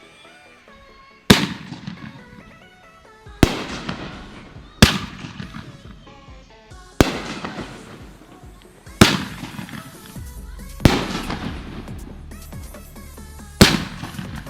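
Consumer aerial fireworks bursting: seven loud booms about one and a half to two seconds apart, each trailing off in crackle, over background music.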